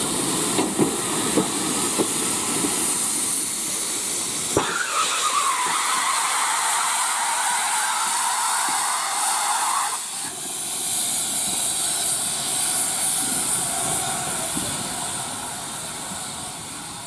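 Steam locomotive hissing steam steadily, with a few sharp clicks in the first seconds. A stronger rush of steam starts suddenly about four and a half seconds in and cuts off about five seconds later.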